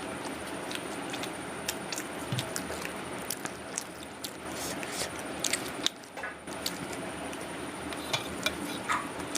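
Chewing and mouth sounds of someone eating a vada pav, short wet clicks and smacks scattered irregularly over a steady background hiss with a faint high whine.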